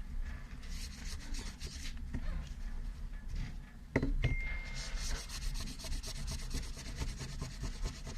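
Rapid back-and-forth hand rubbing strokes while cleaning the parts of a disassembled folding knife, in two runs with a pause in the middle. About four seconds in there is a sharp metallic click that rings briefly.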